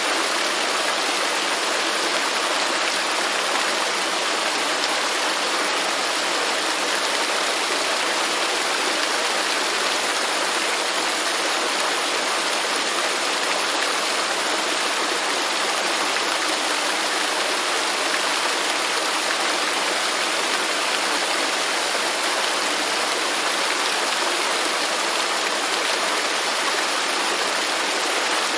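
Waterfall rushing steadily, a dense even hiss of falling and splashing water with little deep rumble.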